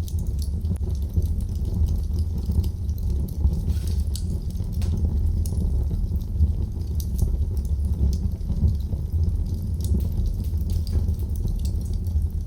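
Wood fire burning in a fireplace: frequent small crackles and pops over a steady low rumble.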